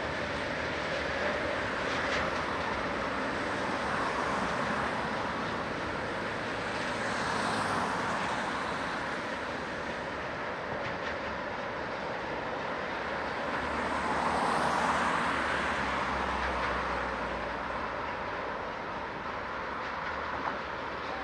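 Freight train of tank wagons rolling over the rails, a steady rumble and rattle of wheels with scattered faint clicks, swelling and easing a little as the wagons pass.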